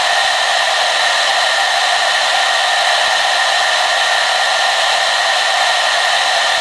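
Hair dryer running continuously at a steady speed: an even, loud rush of air with a constant motor whine.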